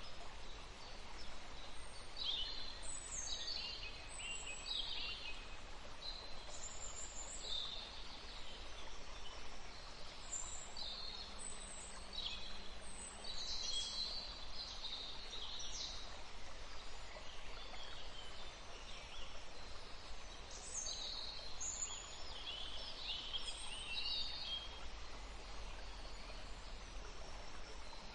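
Songbirds chirping and singing: many short, high chirps and trills come one after another throughout, over a steady low background rumble.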